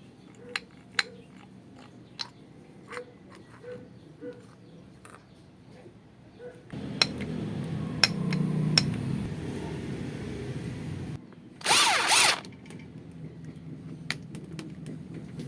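Small metal parts of a rotary hammer drill's gearbox clicking and tapping as they are handled. Then a power tool motor runs steadily for about four seconds, followed by a short, louder burst.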